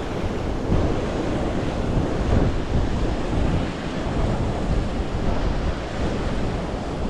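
Steady rushing of a waterfall pouring through a gap in rocks, with wind buffeting the microphone.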